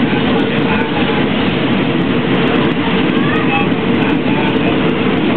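A train running: a loud, steady rumble with no breaks or pauses.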